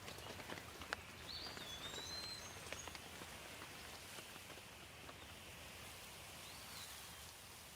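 Steady light rain with scattered individual drops pattering close by, more of them in the first few seconds. A bird gives a short whistled call about a second and a half in and again near the end.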